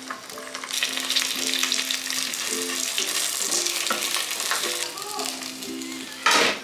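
An egg frying sunny side up, a steady sizzle that swells about a second in and eases off toward the end, with a short loud burst of noise near the end. Light background music plays underneath.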